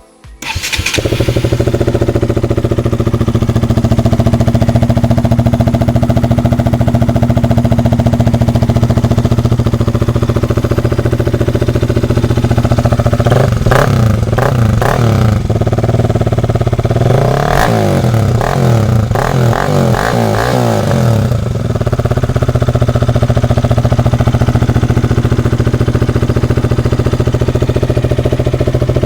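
KTM RC 200 single-cylinder engine breathing through a full-system Akrapovic exhaust. It idles steadily, is blipped up and down in two bursts of revving about 13 and 17 seconds in, then settles back to idle. The note is sweet, with the sound rising as the throttle is opened.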